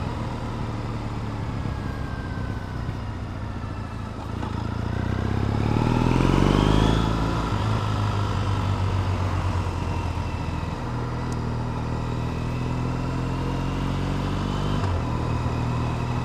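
Triumph Bonneville T100's parallel-twin engine running on the move, heard from the saddle: steady at first, then rising in pitch as the bike accelerates from about four seconds in, dropping back near seven seconds and settling into a steady cruise.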